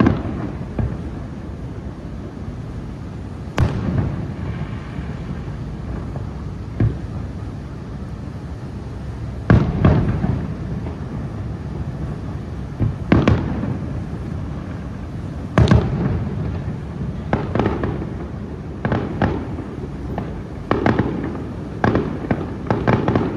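Aerial firework shells bursting: about ten sharp bangs a few seconds apart, coming closer together near the end, some followed by a short crackle.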